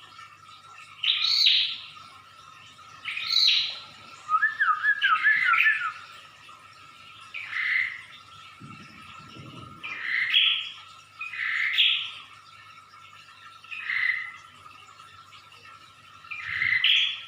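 Prinia (prenjak) singing in loud repeated call phrases, about eight of them, one every two seconds or so, with a quick zigzag trill about five seconds in. A faint steady high tone runs underneath.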